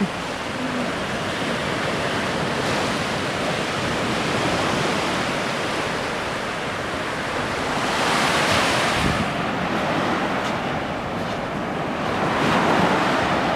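Ocean surf washing onto the shore, with waves swelling louder about eight seconds in and again near the end.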